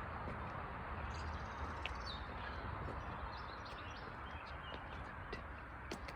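Small birds chirping in short high calls over a steady outdoor background hiss and rumble.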